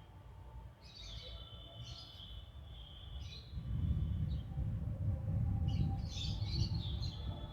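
Small birds chirping in short clusters of calls, with a low rumble coming up about halfway through.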